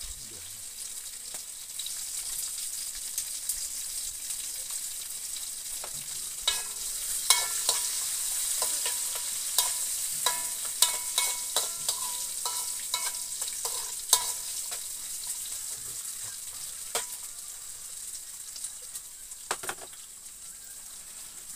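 Food sizzling steadily in hot oil in a wok. A spatula knocks and scrapes against the wok in a run of sharp, briefly ringing clicks from about six seconds in to around seventeen seconds, with a few more near the end.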